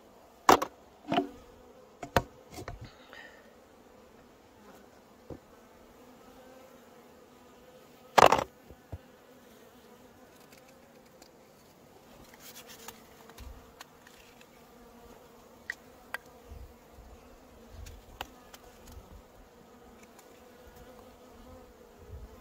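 Honeybees humming steadily at a hive. Several sharp knocks come in the first three seconds, and the loudest comes about eight seconds in.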